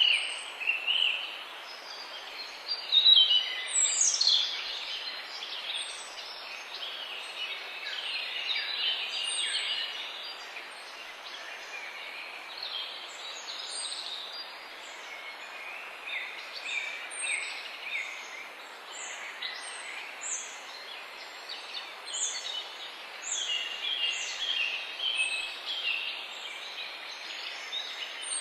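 Several songbirds singing and chirping, with short trills and repeated high thin notes, over a steady background hiss.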